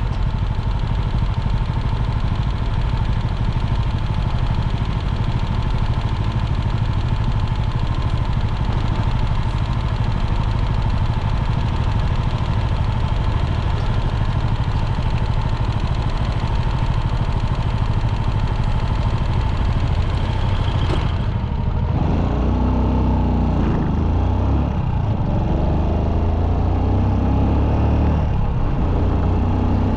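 Motorcycle engine running on the road with a steady rush of wind noise. About two-thirds of the way through, the high wind hiss drops away and the engine note becomes clearer, rising and falling as the speed changes.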